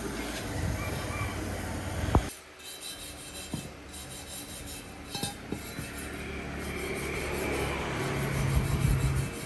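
Repeated rubbing and scraping, like rasping or sanding, with a sharp knock about two seconds in and the scraping growing louder near the end.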